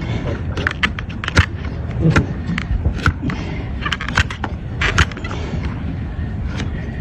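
A hoof knife scraping and cutting the horn of a donkey's hoof, with irregular sharp clicks and knocks as the blade catches and bites.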